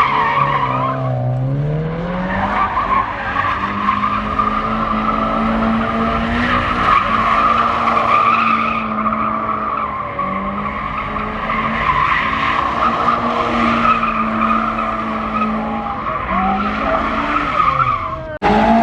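A car drifting: tyres squealing continuously over an engine held at high revs. The engine climbs in pitch a second or two in, then holds steady. The sound cuts out briefly near the end.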